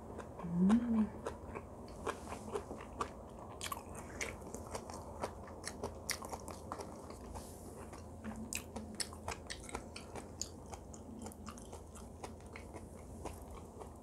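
Close-up wet chewing of braised kimchi and rice, full of small sharp mouth clicks and smacks, with a brief closed-mouth hum about half a second in.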